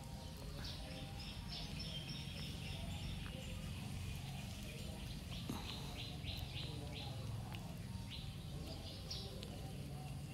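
Small birds chirping in runs of short, quick calls, about four a second at their busiest, over a low steady background rumble.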